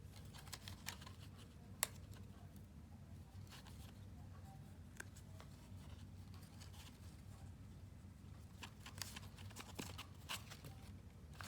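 Faint handling of paper and cardstock: scattered light rustles and taps, with a sharper tick about two seconds in and a cluster of rustles near the end, over a low steady room hum.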